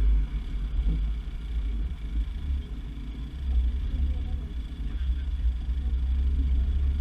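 A car driving, heard as a low, uneven rumble.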